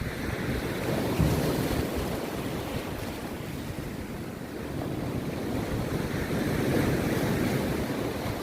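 Rough sea surf breaking and washing on the beach in a continuous roar, swelling louder about a second in and again around seven seconds, with wind buffeting the microphone.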